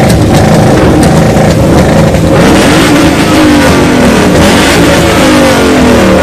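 Car engine revving loudly, its pitch climbing and falling several times, with a series of falling sweeps in the second half.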